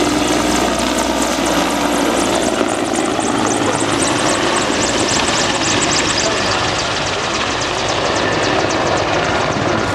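Mil Mi-24 Hind helicopter flying past with its twin turboshaft engines running. Its main rotor chops in a fast, steady beat that grows sharper from about halfway through.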